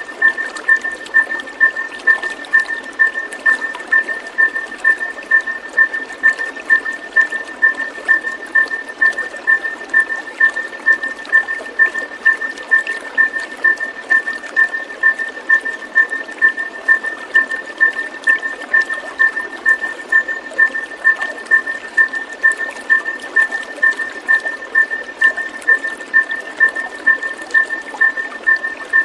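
Running, trickling water with a high chirp repeated evenly about twice a second, on one unchanging pitch, throughout.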